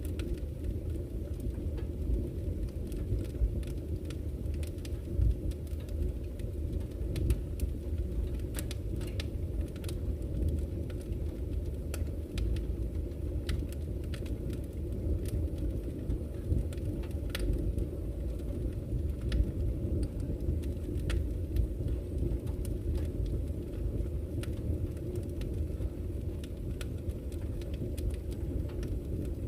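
Campfire crackling, with irregular sharp pops and snaps, over the steady low rush of flowing river water.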